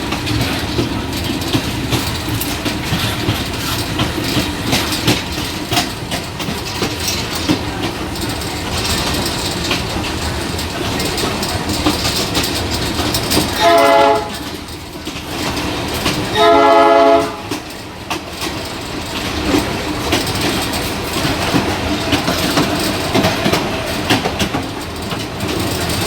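Old passenger train running on the rails, with a steady rumble and dense clicking of the wheels over the track. About halfway through its horn sounds twice, a short blast and then a longer one.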